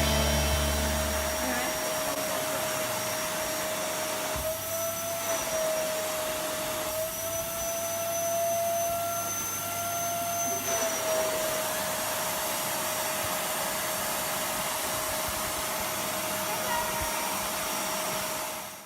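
Kärcher T 8/1 Classic dry vacuum cleaner running steadily, a rushing airflow under a steady motor whine that rises slightly in pitch for a few seconds in the middle.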